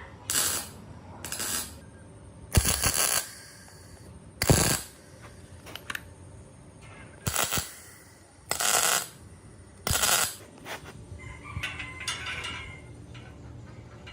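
Metal clanking from restoration work: about seven separate sharp clanks with a short ring, spaced irregularly a second or two apart.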